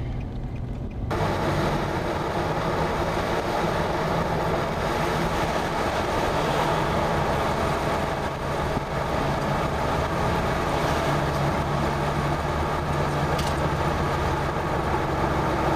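A car driving: steady engine hum with road and wind noise. The rushing noise jumps suddenly louder and brighter about a second in, then holds steady.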